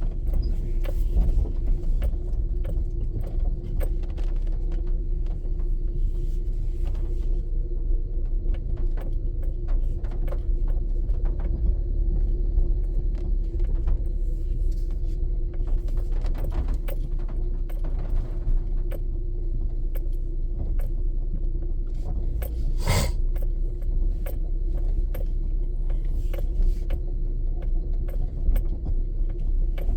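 Vehicle running, a steady low rumble with a constant hum, scattered light ticks and rattles, and one sharper click a little over two-thirds of the way through.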